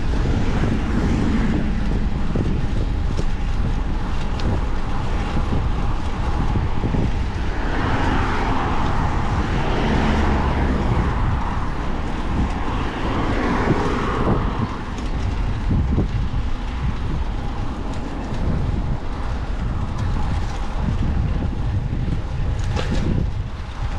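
Wind buffeting the microphone on a moving bicycle, a steady low rumble mixed with road and traffic noise, with a louder rushing stretch in the middle.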